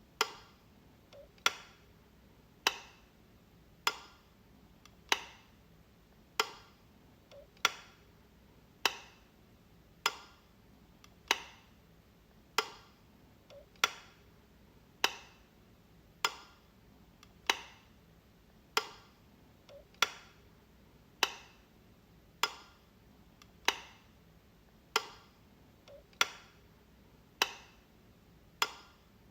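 Light switch clicking, one sharp click a little more than once a second at an even pace, as it is flipped on and off over and over.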